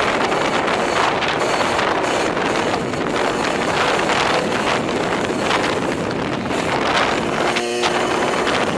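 Heavy wind buffeting the microphone on a fast-moving vehicle, a steady loud rush, with a short pitched tone lasting under a second near the end.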